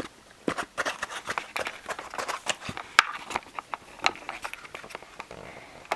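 Irregular close-up tapping, knocking and rustling of a small child's hands handling the camera near its microphone, dense for about four and a half seconds and then tailing off.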